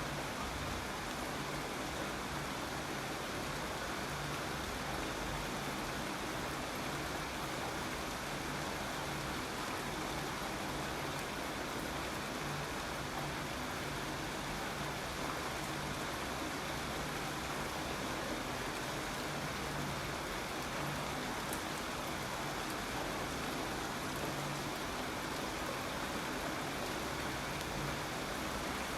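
Steady, even rainfall, a continuous hiss with no let-up.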